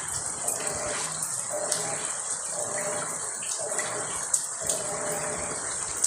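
Repaired washing machine running, water gushing into and swishing in the drum as it fills and agitates in a steady, repeating rhythm. It runs quietly, with no knocking or grinding, on a newly replaced bearing.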